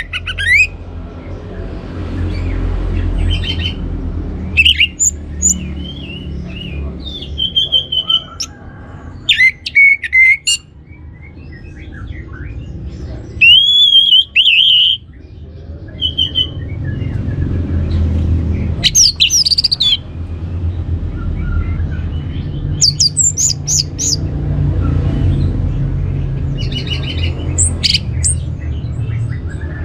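Orange-headed thrush calling and singing in short, separate phrases: chirps, whistled up-and-down glides and quick twittering bursts, with gaps between them. A steady low rumble runs underneath.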